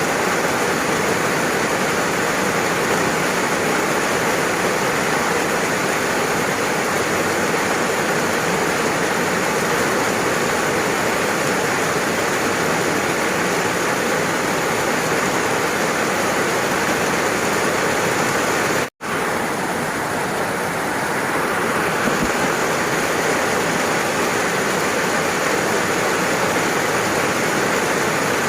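Steady, dense rain hiss. About two-thirds of the way through it cuts out for an instant and comes straight back, like an edit or loop point.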